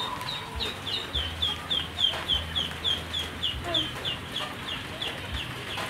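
A bird chirping in a steady, rapid series of short high notes, each sliding down in pitch, about four a second, over a faint low hum that comes and goes.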